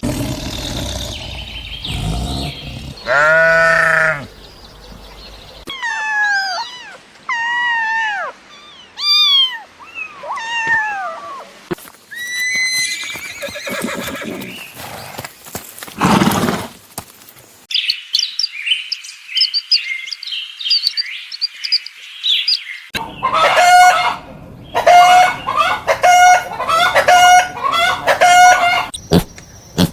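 A string of different farm animal calls, one clip after another. There are pitched bleat-like calls, a run of repeated falling calls, high chirping, and then a quick series of repeated calls.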